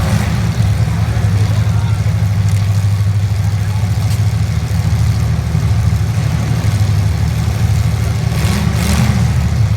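Engines of 1980s stock-class demolition derby cars running loudly in a low, steady rumble, with one car revving up briefly near the end.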